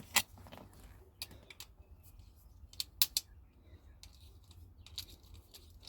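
A screwdriver loosening the wire terminal screw on a circuit breaker: a scattered series of small sharp clicks and ticks, with three close together about three seconds in.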